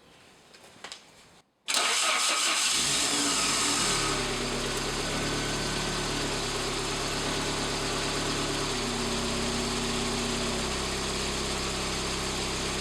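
Saab 900's four-cylinder engine starting about two seconds in, catching with a brief hiss, then settling into a steady idle.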